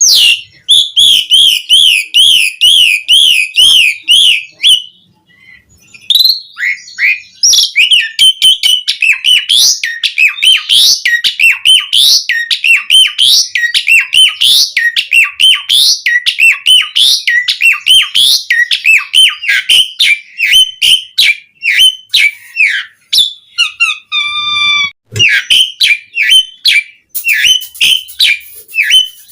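Pied starling (jalak suren) singing loudly. It opens with a rapid warbling trill, pauses briefly, then runs into a long string of varied sharp whistles and chattering notes. A steadier, clear whistled note comes about 24 seconds in.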